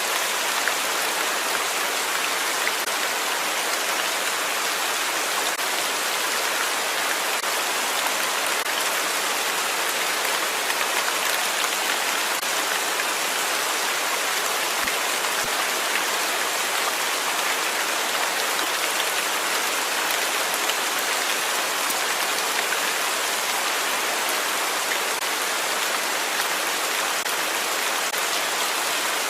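Steady rain falling on a surface, a dense even patter of drops without pause.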